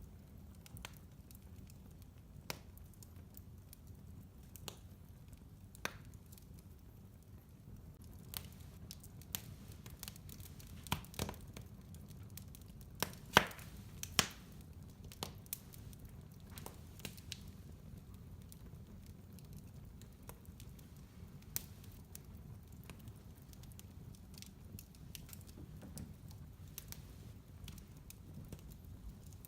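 Fire burning in a fireplace: a low, steady rumble under scattered crackles and pops, with a few sharper, louder pops bunched together about halfway through.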